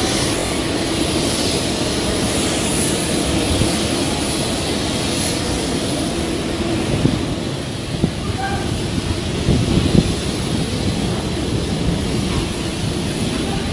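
A nearby airliner's engines running steadily: a loud, even rush with a thin high-pitched whine over it. A few short knocks sound in the second half.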